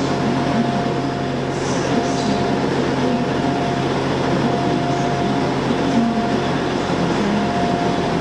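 Diesel multiple-unit trains running at a station: a steady engine drone with a faint continuous tone above it.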